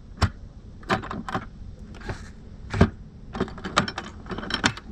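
Irregular sharp clicks and knocks, a dozen or so, from a replacement lock being worked into a motorcycle saddlebag that it does not yet sit snugly in.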